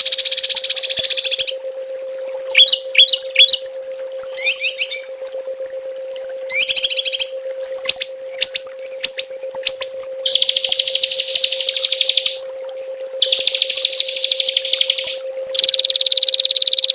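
Small songbirds giving rapid, dense trills in long bursts, the 'tembakan' style that bird keepers use for masteran, with short clusters of chirps and single sharp notes between the bursts. A steady low hum runs underneath.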